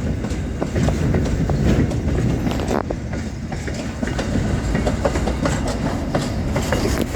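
Freight train rolling slowly, with a steady low rumble and irregular clicks from the wheels over the rail joints.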